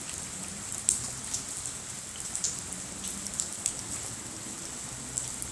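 Hail shower: a steady hiss of rain with irregular sharp clicks of hailstones striking, one louder hit about a second in.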